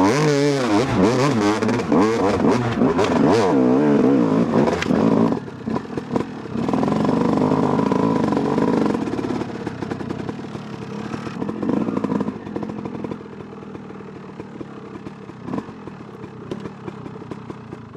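Two-stroke dirt bike engine, a 2008 Yamaha YZ250, revving hard with the pitch rising and falling quickly as the throttle is worked. It drops off briefly about five seconds in, picks up again, then eases off and grows quieter over the last several seconds.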